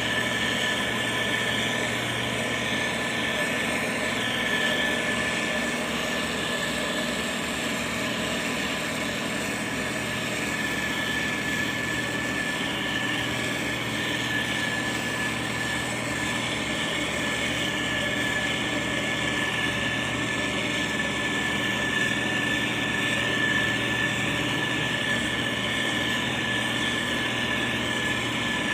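Heavy diesel road-construction machinery, a motor grader or road roller, running steadily at an even level, with a thin high whine held over the engine.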